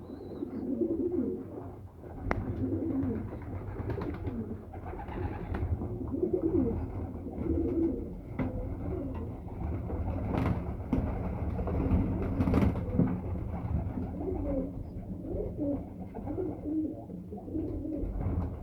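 Domestic pigeons cooing, several birds overlapping continuously, with a few sharp clicks among the calls.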